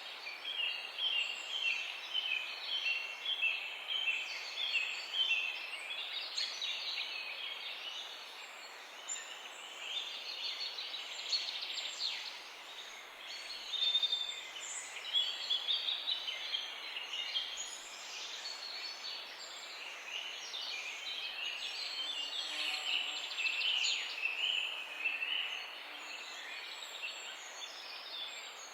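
Morning chorus of several songbirds chirping and trilling over one another, with short repeated chirps near the start and busier overlapping calls in the middle, over a steady background hiss.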